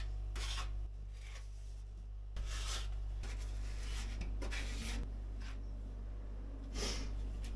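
Plaster filler being scraped and spread into holes and joins in wooden cupboard panels: a series of short scraping strokes, roughly one a second, over a steady low hum.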